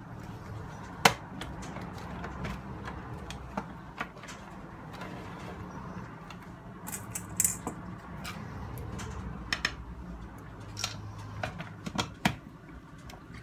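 Scattered small clicks and knocks of a plastic portable radio being handled and taken apart, with the sharpest clack about a second in, over a low steady hum.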